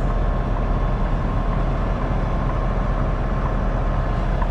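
Semi tractor's diesel engine running steadily at low revs, heard inside the cab, as the rig reverses slowly toward a loading dock.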